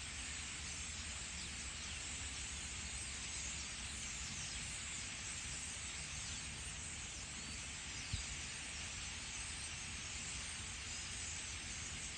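A large flock of birds calling all at once, a dense continuous chatter of many overlapping calls, as they gather to roost. A single brief knock about eight seconds in.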